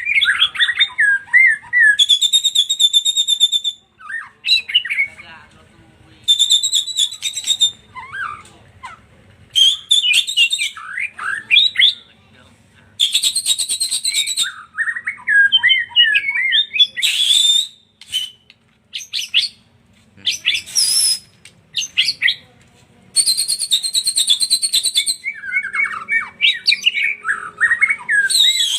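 White-rumped shama singing: fast, varied whistled phrases that swoop up and down, broken several times by harsh, buzzy rattling calls lasting a second or two.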